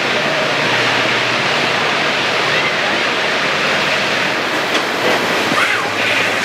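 Passenger train running through a rock tunnel: a loud, steady rush of wheel and rail noise closed in by the tunnel walls, with a couple of sharp clicks in the second half.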